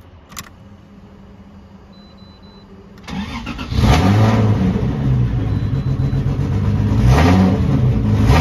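Toyota GZ10 Soarer's Yamaha-developed 1G-GEU twin-cam straight-six is started about three seconds in, after a click, and then revved twice, heard from inside the cabin.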